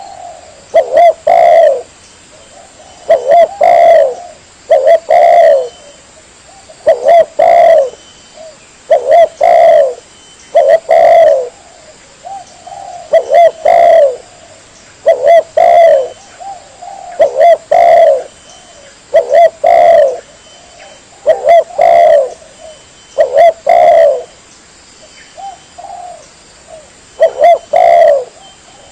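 Spotted dove (tekukur) cooing over and over: loud, short phrases of two or three coo notes repeating about every two seconds, played as a lure call.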